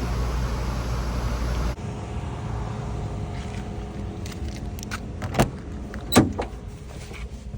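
A steady low rumble that cuts off abruptly about two seconds in, followed by a quieter stretch with a few sharp clicks and knocks.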